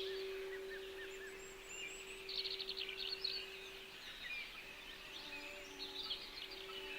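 A steady pure tone, the throat-chakra frequency, held under songbirds chirping and trilling, with a quick run of trills about two seconds in and more chirps near the end.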